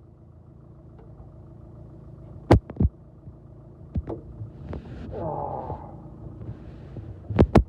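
An engine running steadily at idle with a low, even throb. Sharp knocks sound a couple of times around three seconds in, and a quick run of them comes near the end.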